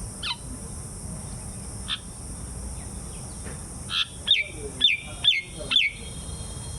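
A bird calling: a couple of single sharp notes, then a run of four loud, quick downward-sweeping calls about half a second apart, over a steady high hiss.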